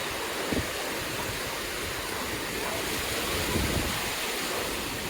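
Steady wash of ocean surf breaking on a beach, with wind buffeting the microphone in uneven low gusts.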